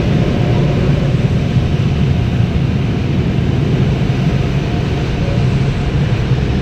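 Car wash heated-dry blowers running: a loud, steady rush of air over the car, heard from inside the cabin.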